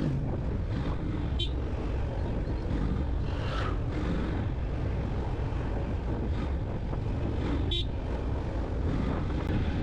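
Steady wind rush and running noise from a Yamaha FZ-X motorcycle on the move, picked up by the rider's camera mic, with a few faint brief ticks.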